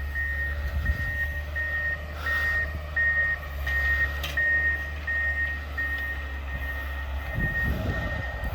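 A heavy vehicle backing up: its reversing alarm beeps steadily on one high tone over the low rumble of its engine.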